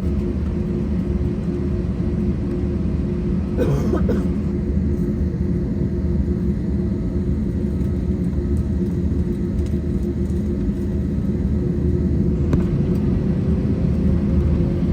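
Airbus A320 jet engines running with a steady low rumble and a steady hum, with a couple of brief clicks about four seconds in and again later.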